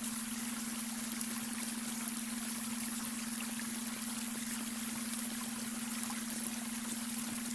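Babbling brook running steadily, with a constant low tone mixed in underneath: the added beta-wave brainwave frequency.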